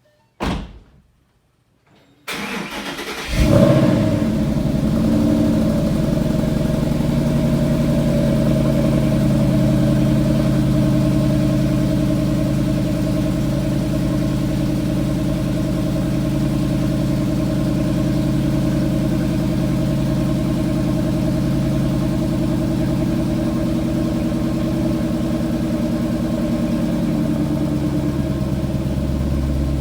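Car engine with stock exhaust cold-started: the starter cranks for about a second, then the engine catches with a brief rev. It settles into a steady fast idle, and the note deepens slightly near the end.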